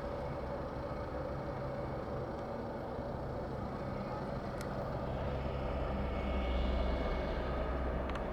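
Steady mechanical engine hum with a low rumble that swells from about five seconds in.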